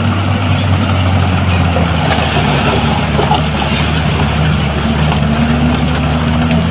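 Heavy diesel engine of earthmoving machinery running steadily, its pitch drifting slightly and rising a little near the end.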